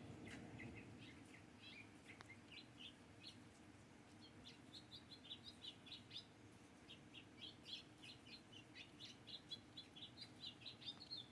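A bird calling in a long, quick run of short high chirps, thicker in the second half, over a faint steady low hum.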